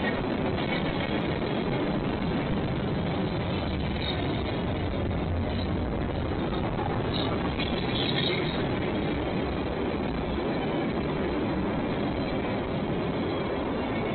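Train rolling past at a steady level: continuous rumble and roar of wheels on rail, with a few faint high squeals about halfway through.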